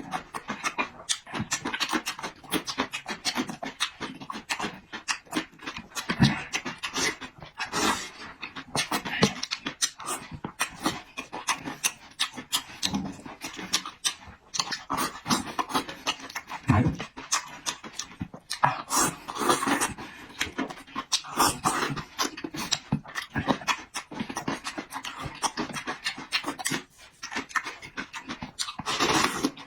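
A person eating: wet chewing and slurping, with many quick, irregular smacks and clicks.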